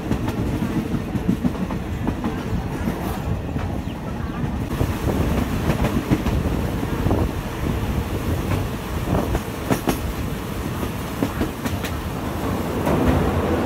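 State Railway of Thailand ordinary-class passenger train carriage running along the track, heard at an open window: a steady rumble with wheels clacking over rail joints now and then.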